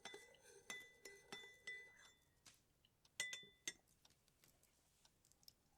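Tableware clinking: a run of light clinks, each with a short ring, over the first two seconds, then a second quick cluster of clinks a little after three seconds in.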